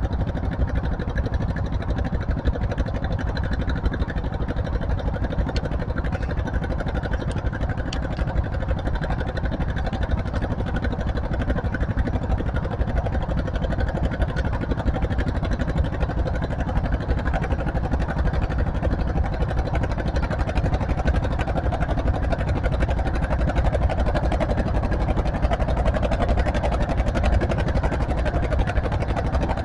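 Tractor engine running steadily and loudly, growing a little stronger near the end.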